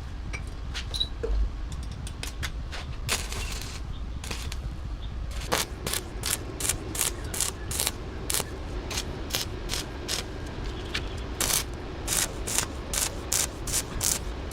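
Metal hand-tool work: scattered clicks and a short hiss, then a steady run of sharp ratchet-like clicks, about two or three a second, from about five seconds in.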